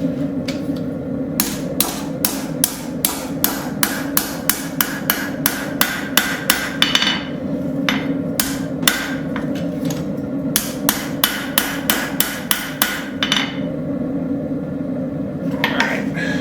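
Blacksmith's hammer striking a hot railroad spike on an anvil in steady runs of about three blows a second. There is a short pause about a third of the way in and a longer one near the end, over a steady low rush.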